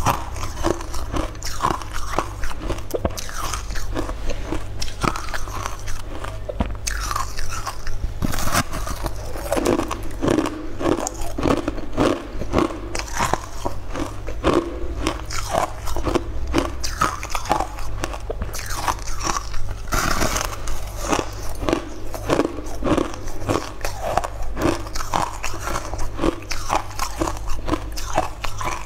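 Close-miked biting and chewing of a hard, crunchy purple crystal-covered treat: many crisp crunches and crackles in an irregular run, over a low steady hum.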